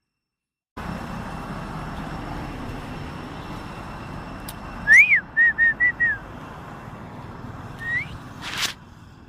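Clear whistled notes over a steady background hiss: one loud whistle that rises and falls, then four quick short whistles at the same pitch. A short rising whistle follows near the end, then a sharp click.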